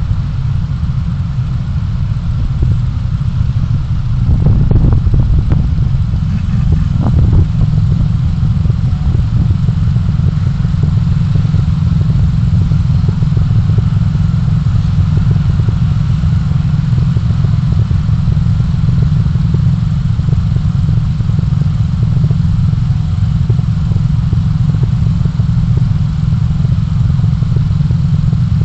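Steady low rumble of a moving vehicle's engine and road noise, with a few short knocks and rattles about four to seven seconds in.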